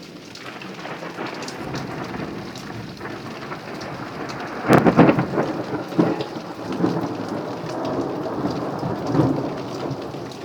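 Thunder in a heavy rainstorm: a low rumble builds, then a loud crack of thunder about five seconds in rolls on in several further rumbles, with steady rain falling.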